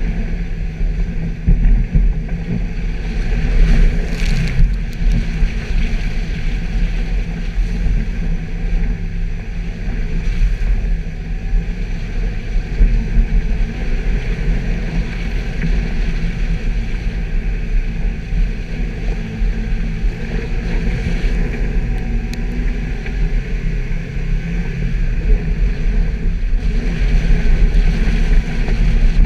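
Suzuki Jimny's engine running steadily while the vehicle is driven off-road, a loud low drone with rushing noise over it.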